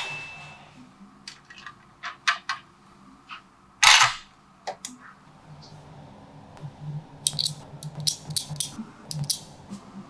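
Small magnetic balls snapping and clicking together in sharp, scattered clicks, with a louder, longer rattle about four seconds in and a quick run of clicks near the end.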